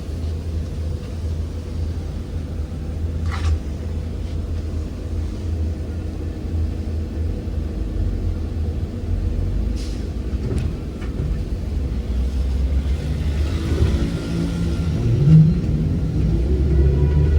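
ZiU-682G trolleybus under way: a steady low rumble, with the electric traction motor's whine rising in pitch about three-quarters of the way through as it accelerates. Two short clicks are heard, one early and one about halfway.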